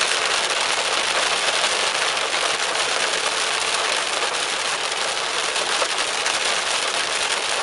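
Heavy rain pelting a moving car's windshield and roof, a steady hiss with wet road noise beneath it.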